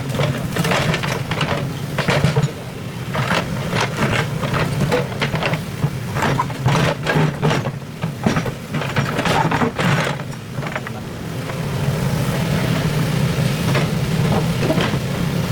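Excavator engine running steadily, with a dense run of sharp knocks and scrapes over it until about ten seconds in, after which mostly the engine is heard.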